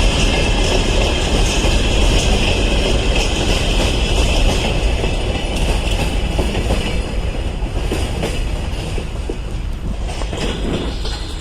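Freight train rolling past: steady rumble of wagon wheels on the rails with a high ringing tone that fades about halfway through, and sharper clicks over rail joints near the end.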